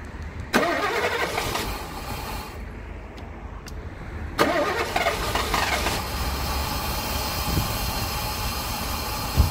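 A 1974 Mercedes 450SL's 4.5-litre V8 being started: a burst of cranking about half a second in eases off, then about four seconds in it is started again and keeps running at idle. It is running with fuel pressure around 40 psi, far too high, and the cold start valve is disconnected.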